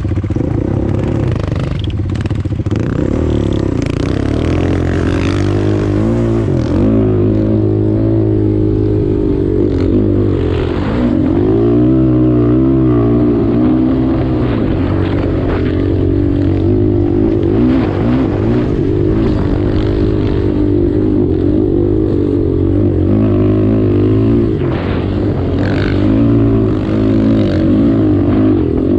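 Single-cylinder off-road engine running hard while riding, its pitch repeatedly rising and falling with the throttle.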